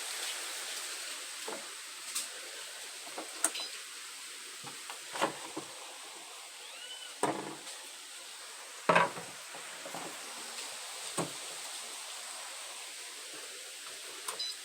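Electrolux LTC07 washing machine with a steady watery hiss, broken by about eight irregular knocks and clatters.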